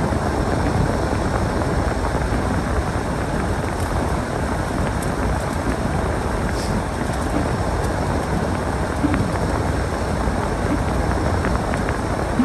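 Storm wind blowing across the microphone: a steady low rushing noise with no let-up.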